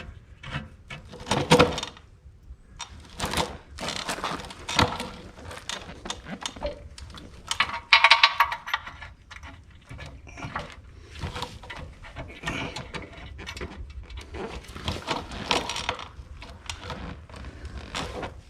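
Irregular metal clinks, knocks and scrapes of steel bolts and hand tools being handled while bolting a clutch housing onto an engine, some clinks briefly ringing.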